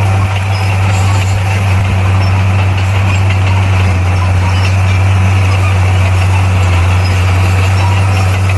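Bulldozer's diesel engine running steadily with an even, low drone.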